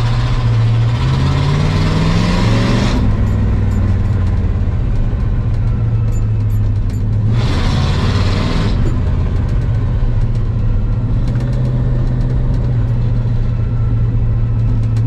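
A 1985 Ford F250 pickup's engine running under way, rising in pitch over the first three seconds and then holding steady. Two spells of loud rushing noise come over it, one at the start and one about halfway through. The truck's transmission is hesitating, which the driver hopes is only low fluid.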